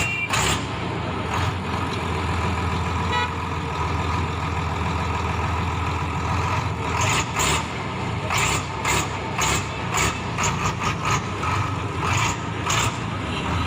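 Diesel engine of a YTO 1304 tractor running steadily with a low hum. From about halfway through, a series of short, sharp noises cuts in irregularly over the running engine.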